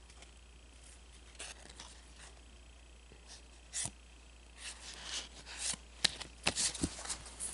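Trading cards being handled and shuffled by hand: a few faint clicks, then a quick run of rustling card snaps and flicks in the last few seconds.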